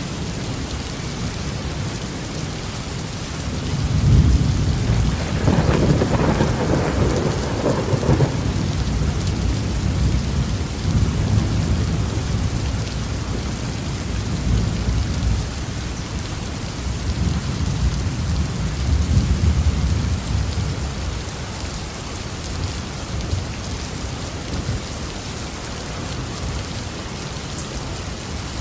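Steady heavy rain falling on a roof, with thunder. A loud clap comes about four seconds in, crackling at first and then rumbling on for several seconds. Softer rolls of thunder follow in the middle and again later.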